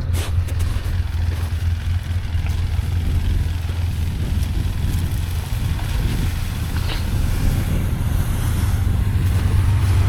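Side-by-side UTV engine running steadily while driving, a constant low engine sound.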